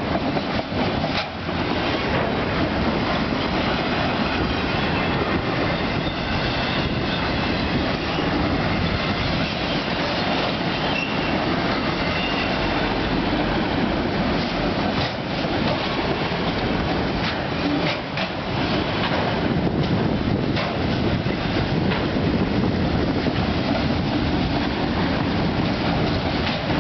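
A long Canadian Pacific freight train's cars rolling past at close range: a steady, loud rumble of wheels on rail, with irregular clicks and clunks as wheels cross the rail joints.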